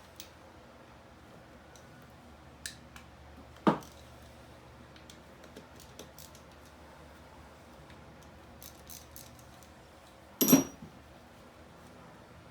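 Metal tools and engine parts being handled during hand disassembly of a 2001 Yamaha YZ426F engine: scattered light clicks, a single knock a little under four seconds in, and a brief cluster of ringing metallic clinks near the end.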